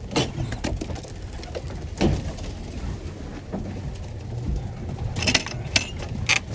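Domestic pigeons cooing, with a few short sharp knocks now and then, most of them near the end.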